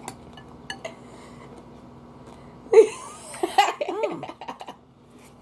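A person bursts out laughing about halfway through, for roughly two seconds, after a few faint small clicks.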